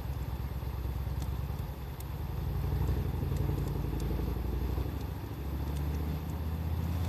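Wood fire crackling with scattered sharp pops, under a louder low engine rumble that swells about three seconds in.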